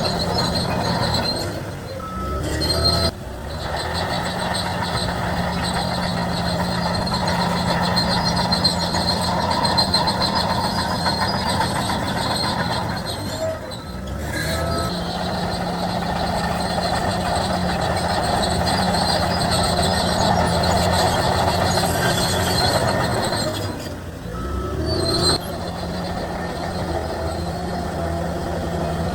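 Crawler bulldozer's diesel engine working steadily under load, with track noise from the undercarriage. The engine note drops and picks up again three times, roughly every eleven seconds.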